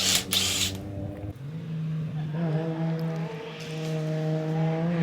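Drift car's engine held at high, nearly steady revs, with small shifts in pitch, after two loud bursts of rushing noise in the first second.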